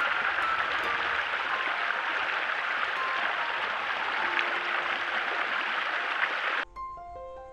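Steady rushing of running water from a river or stream, with faint music tones underneath. It cuts off suddenly near the end and piano music takes over.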